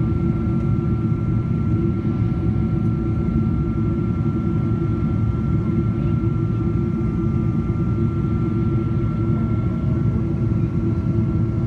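Steady in-flight cabin noise of a Boeing 777-200ER: a constant low rumble of engines and airflow with a steady whine from the Pratt & Whitney PW4090 turbofans.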